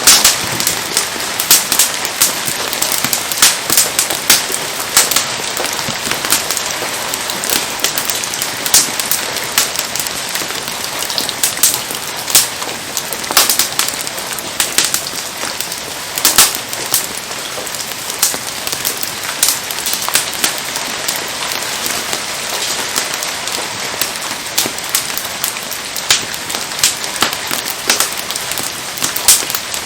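Steady rain with a wood bonfire crackling through it, giving many irregular sharp pops.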